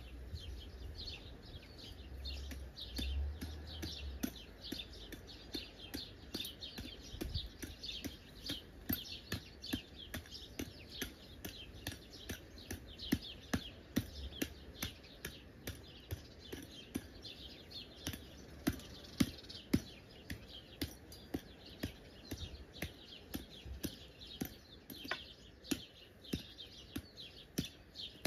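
Many small birds chirping and twittering densely, with sharp ticks that come about once a second in the second half.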